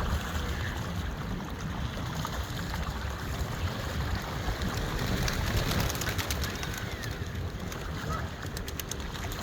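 Wind rumbling on the microphone, with birds calling faintly over it, among them pigeon-like coos. A quick run of clicks comes near the end.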